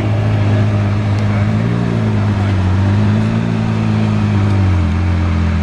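Twin-turbocharged V12 engine of a GAD Motors-tuned Lamborghini Aventador running at low revs as the car creeps forward. The note is a loud, steady, deep rumble whose pitch wavers slightly.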